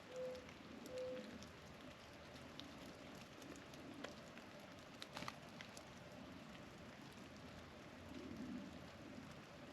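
Mourning dove cooing: the last two low, steady hoo notes of its song, about a second apart, in the first second and a half. Under it runs a faint, steady patter like falling precipitation, with a few sharp clicks around four to five seconds in.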